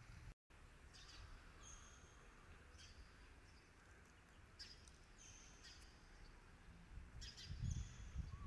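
Faint outdoor quiet with small birds chirping: several short, high calls scattered throughout. A low rumble swells near the end.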